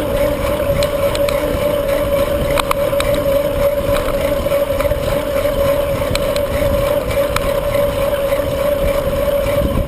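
Wind rushing over the microphone of a moving bicycle, with a steady hum underneath and a few light clicks and rattles.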